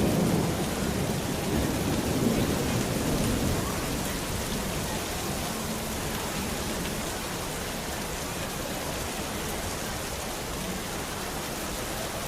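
Steady rain falling, with a low roll of thunder in the first few seconds that fades away.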